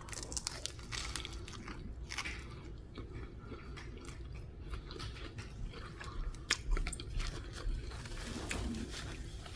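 A person biting into a lettuce wrap of fried portobello mushroom strips and chewing it, with many small crunchy clicks.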